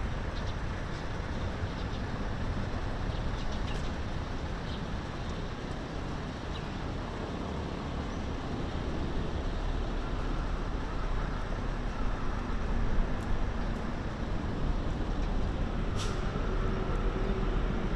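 Steady city traffic rumble from nearby roads, with a few faint clicks and one sharper click near the end.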